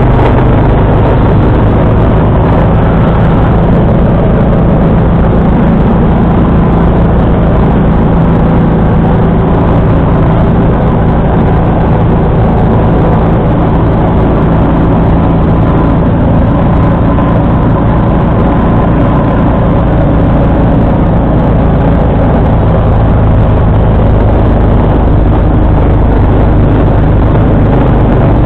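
John Deere 445 garden tractor's engine running steadily at working speed, driving its front-mounted 47-inch snowblower, a loud even drone with no change in pitch.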